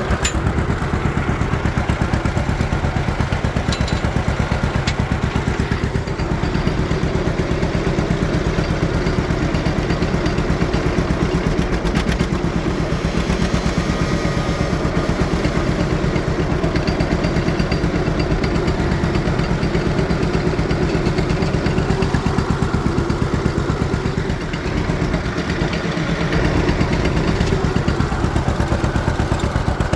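John Deere Model A tractor's two-cylinder engine, running on propane, chugging steadily with an even, regular firing beat while the tractor is driven along. It is running lean because the propane tank is nearly empty; the beat dips briefly in level near the end.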